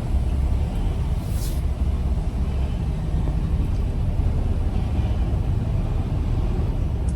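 Semi-truck running, a steady low rumble, with a brief hiss about a second in.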